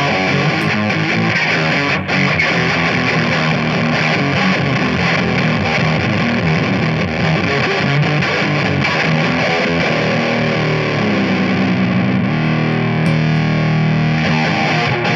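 Ibanez S470 electric guitar played through a Ruby fuzz pedal and Ditto looper, with a heavily fuzzed, distorted tone. Notes run continuously, with longer held notes near the end.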